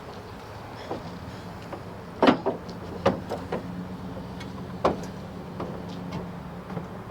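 A steady low mechanical hum with a few sharp knocks and clicks, the loudest about two seconds in.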